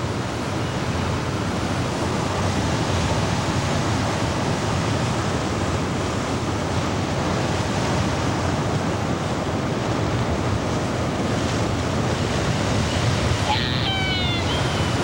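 Steady wind and surf noise on a seabird cliff. Near the end a bird call breaks in, made of a few short falling notes; it fits the distant calling of light-mantled sooty albatrosses.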